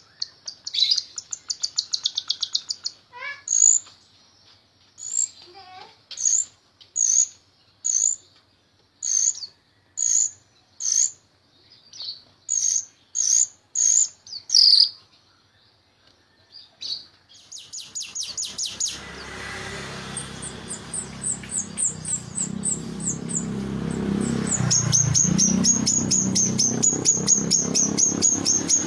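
Jalak rio-rio starling singing: a short chatter, then a run of sharp whistled calls about one a second. Near the midpoint it switches to a busier, louder passage with a fast high trill.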